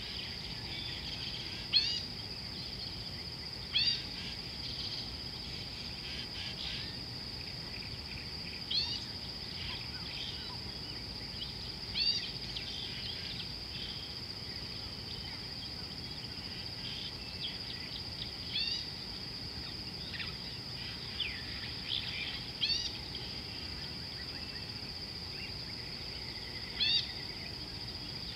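A bird giving short, sharp calls every few seconds over a steady high-pitched insect drone.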